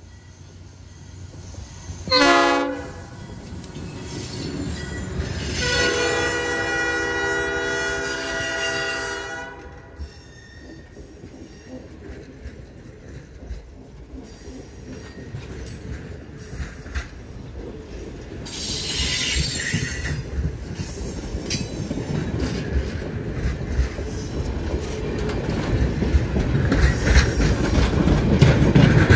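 Diesel locomotive horn sounds a short blast about two seconds in and a longer blast a few seconds later, then the passenger train rolls past with wheels rumbling and clicking over the rails, growing louder near the end, and a brief high wheel squeal partway through.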